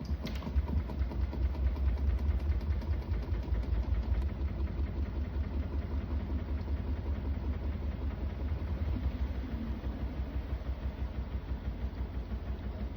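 Miele W2 WQ 1000 WPS front-loading washing machine running, its drum turning with a steady low rumble and a fast, even pulsing that starts suddenly out of near silence.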